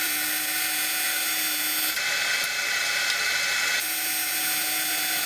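AC TIG welding arc on aluminum: a steady electrical buzz while the filler rod is dabbed into the puddle. Its tone shifts about two seconds in and again near four seconds.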